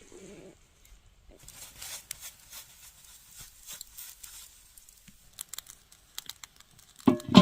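Crinkling and rustling handling noise with scattered small clicks, then one loud short knock with a brief ringing tone just before the end.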